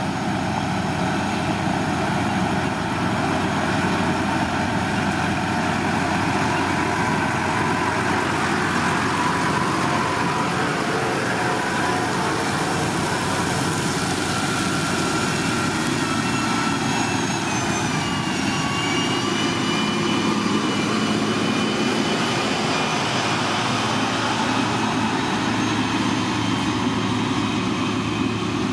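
Heavy road-construction machine's diesel engine running steadily, with a faint whine that drops in pitch about two-thirds of the way through.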